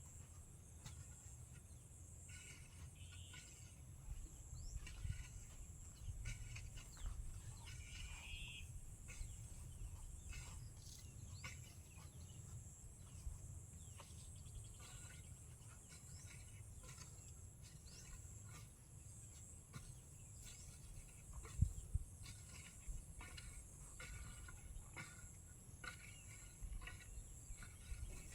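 Faint rural ambience: a few short bird calls in the first nine seconds over a steady high insect-like hiss, with scattered light clicks and taps throughout.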